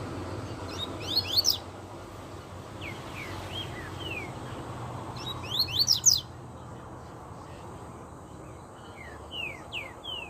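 Papa-capim seedeater singing: two loud bursts of quick, sharp sweeping notes, about a second in and again around the middle, with softer slurred notes between them and near the end. A steady low rumble of background noise runs underneath.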